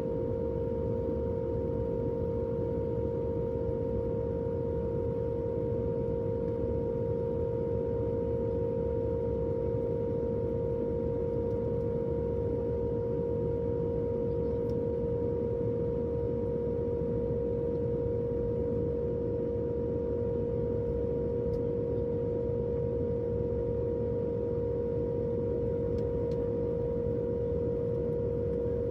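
Airliner cabin noise in flight: a steady low rumble with a constant humming tone over it, unchanging throughout.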